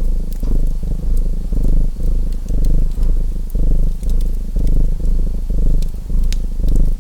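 Domestic cat purring loudly and close, swelling and fading about once a second as it breathes in and out. Fireplace crackles snap faintly over it.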